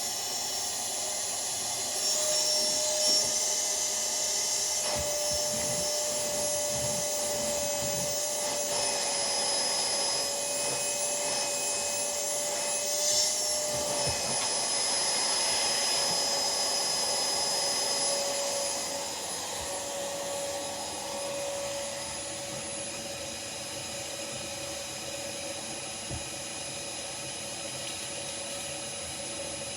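Vacuum cleaner running steadily, its motor giving a whine under a rushing noise, with a small wavering in pitch; it drops somewhat in loudness after about twenty seconds.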